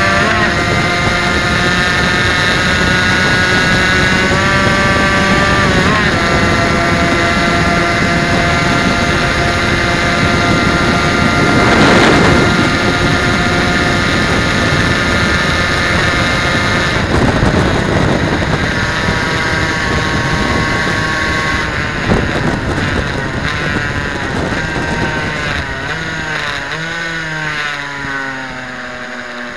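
Suzuki RGV250's two-stroke V-twin engine running at high revs under throttle, heard onboard over a steady rush of wind. The pitch holds high with a few small steps, and near the end it falls away and then climbs again.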